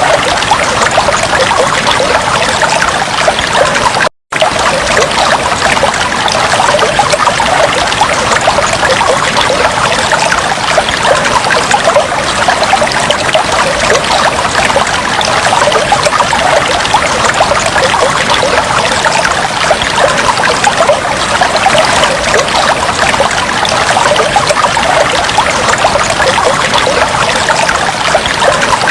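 Aquarium water trickling and bubbling steadily, a dense patter of small splashes. The sound cuts out completely for a split second about four seconds in.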